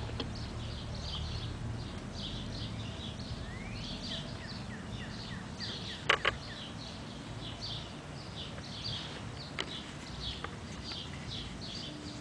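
Small birds chirping over and over, quick short chirps about three a second, over a steady low background hum. About six seconds in, a quick pair of sharp clicks is the loudest sound, with a fainter click a few seconds later.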